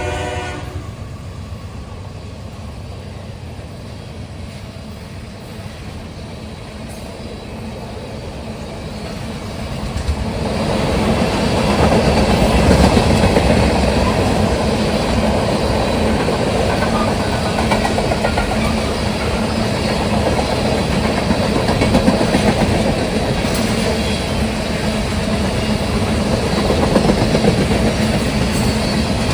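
Train passing close by: a low rumble at first, then from about ten seconds in a louder, steady rolling noise of the railcars going past on the track.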